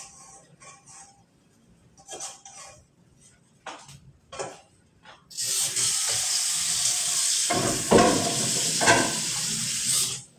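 A kitchen tap running for about five seconds, switched on suddenly about five seconds in and shut off shortly before the end, with a few knocks of something held under the stream near the middle. Light clicks and knocks of kitchenware come before it.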